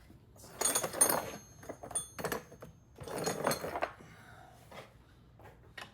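Metal tools and hardware being handled, clinking and rattling in two bursts, with sharp clicks and a brief bright metallic ring around the first.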